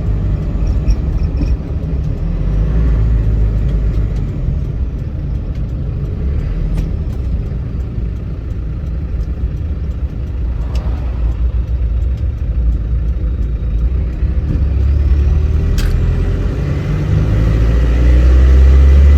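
Land Rover Defender 300Tdi four-cylinder turbodiesel heard from inside the cab while driving on the highway: a steady low engine drone with road rumble, getting louder near the end.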